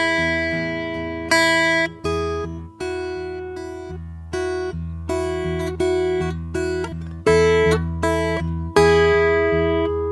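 Acoustic guitar played softly, single notes and chords plucked one after another and left to ring out.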